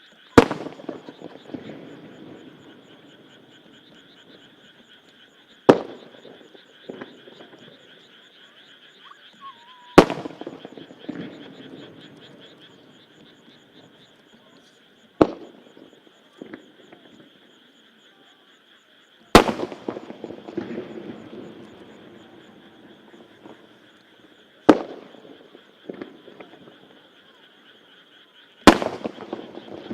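Large aerial firework shells bursting one at a time, seven sharp booms about every four to five seconds, each followed by a rolling echo and crackle. Underneath runs a steady pulsing chorus of croaking frogs.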